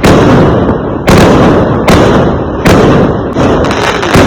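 Fireworks exploding in quick succession: about five sharp, loud bangs roughly a second apart, each trailing off in a rumble that runs into the next.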